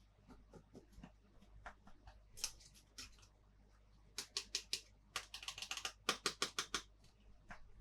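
Plastic toy pieces and packaging being handled, giving groups of sharp clicks and crackles. The busiest stretch comes about four to seven seconds in: a quick run of clicks, then a dense crackle.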